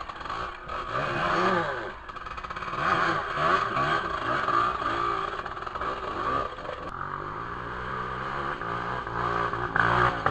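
Dirt bike engine revving up and down repeatedly while riding, its pitch rising and falling every second or two, louder near the end.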